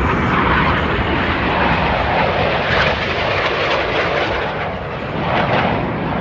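Patrouille Suisse Northrop F-5E Tiger II jets flying past, a loud rushing jet noise that swells, dips about five seconds in, then rises again.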